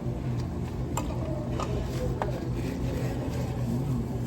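Steady dining-room hum with a few light clinks of tableware, about three in the first half, as food is eaten at a buffet table.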